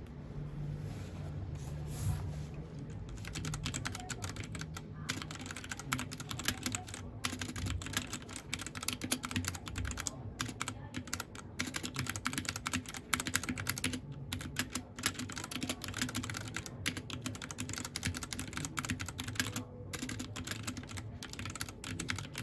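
Mechanical keyboard being typed on: a fast, continuous run of key clicks, sparser for the first few seconds, then dense, with brief pauses now and then.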